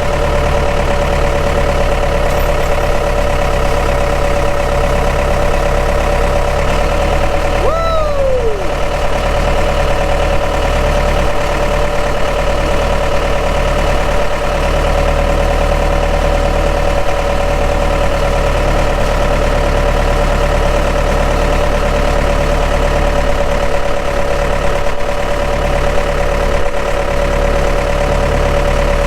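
An engine idling steadily, most likely the machine used for the lift. A short falling squeak comes about eight seconds in.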